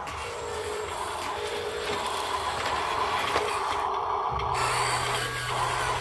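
Heavy vehicle machinery running with a steady mechanical clatter, and a low engine hum that comes in about four seconds in.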